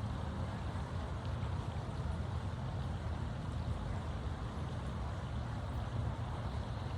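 Steady low outdoor background rumble with no distinct events, the kind made by distant traffic, wind on the microphone or running water.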